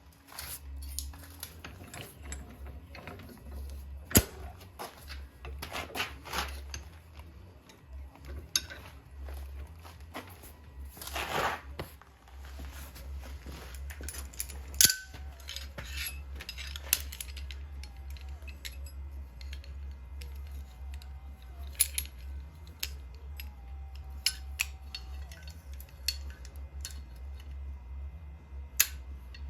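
Metal parts being handled, with scattered light metallic clinks and knocks and one longer scraping rattle near the middle, over a steady low hum.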